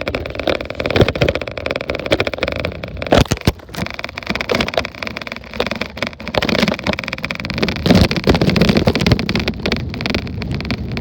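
Riding noise from a bicycle filmed with a handlebar-mounted tablet: wind rushing over the microphone, with frequent knocks and rattles from the bike going over bumps.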